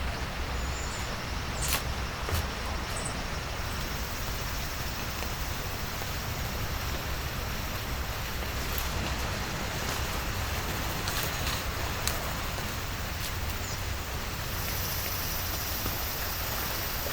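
Steady rain falling, with scattered sharp taps of single drops and a low rumble underneath.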